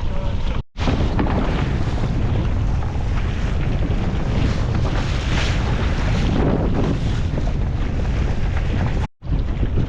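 Wind buffeting the microphone on a small open boat under way at sea, a loud, steady rush and rumble. It cuts out twice, for a moment, less than a second in and near the end.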